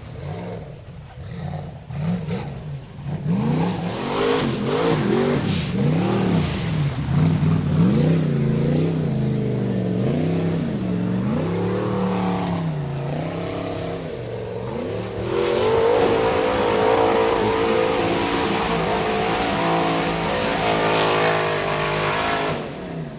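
Rock bouncer buggy engine revving hard, the revs swinging up and down in quick bursts, then held high for several seconds before dropping off near the end.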